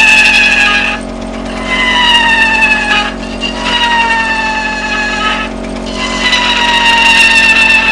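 Home-made four-cylinder Stirling engine running with a loud whine that slowly sags in pitch. The whine breaks off three times for about half a second and comes back higher each time.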